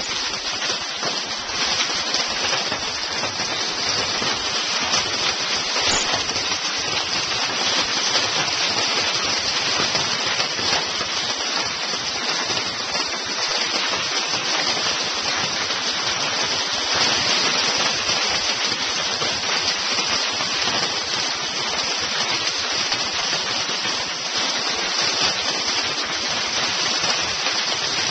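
Hail pelting down: a dense, steady patter of countless small hailstones striking surfaces, holding evenly throughout.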